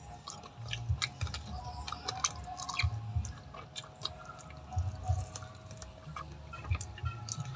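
A person chewing food with the mouth close to the microphone: irregular soft chewing with wet mouth clicks and smacks.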